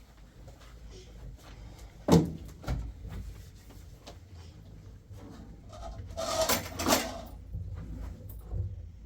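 Knocks and handling noises: a sharp knock about two seconds in, a lighter one just after, then a longer scraping rustle a few seconds later.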